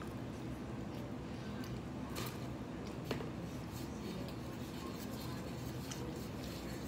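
Quiet close-up eating sounds: chewing of fries and fingers handling food on a plate, with a couple of faint clicks, the clearest about three seconds in, over a steady low room hum.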